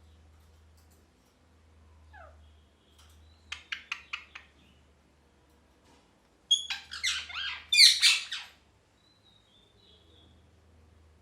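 Ringneck parrot calling: a short falling note, then a quick run of about five sharp chirps, then a loud burst of harsh, rapid squawking calls a few seconds later.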